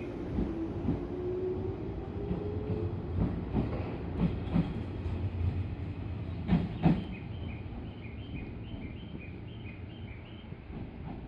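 185 series electric train running on the rails: a steady low rumble with wheels clicking over rail joints, two double-clicks about two seconds apart, the sound easing off somewhat afterwards.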